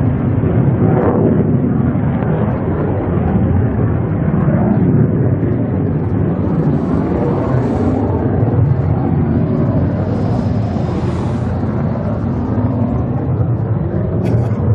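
F-16 fighter jet engine roaring, a loud, steady, deep rumble with no break, with a faint higher hiss swelling in twice.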